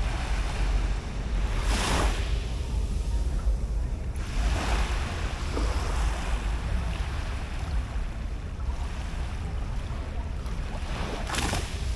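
Sea waves washing up on a beach, swelling and falling back every few seconds, with wind rumbling on the microphone.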